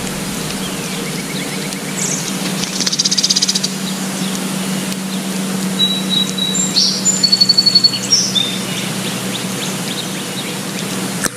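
Several birds calling over steady outdoor hiss and a low hum. There is a fast trill of high notes about three seconds in and a run of rapid high pulses around seven to eight seconds in.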